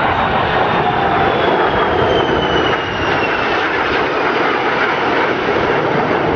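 Jet aircraft passing low overhead: a loud, steady jet roar with a whine that slowly falls in pitch as they go by.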